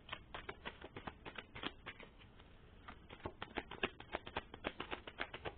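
Tarot cards being shuffled by hand: a quick, irregular run of light card clicks and slaps, several a second.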